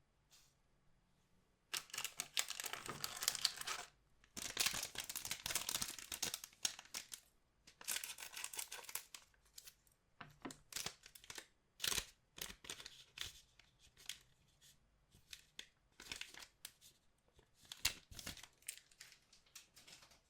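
Foil trading-card pack wrappers being torn open and crinkled. Three long rips in the first half, then short, sharp crackles of handled wrapper.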